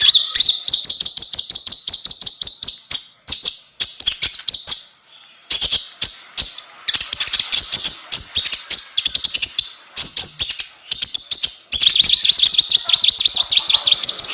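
Kolibri ninja (konin) sunbird singing vigorously: long runs of rapid, high chattering notes in bouts of a few seconds, broken by short pauses.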